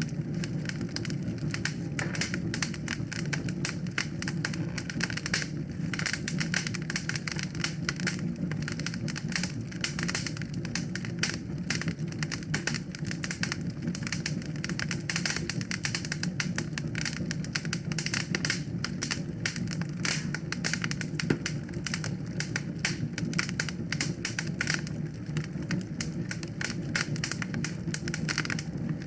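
Wood fire crackling and popping in a fireplace, with many quick irregular cracks over a steady low rumble.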